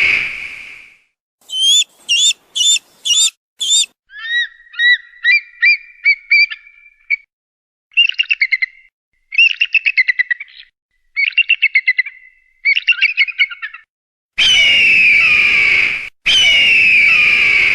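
Hawk calls, cut together with dead silence between them. A long, harsh, falling scream comes at the start, then runs of short sharp calls and groups of rapid chattering trills, and two more long falling screams near the end.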